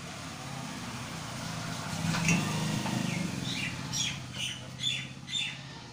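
A small bird chirping about six times in quick succession over a steady low hum, with a single click shortly before the chirps.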